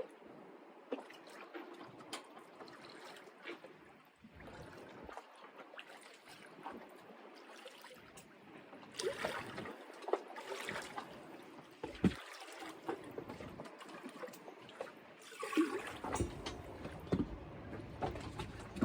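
Water splashing and trickling around a sailing yacht, with scattered small knocks and clicks, busier in the second half.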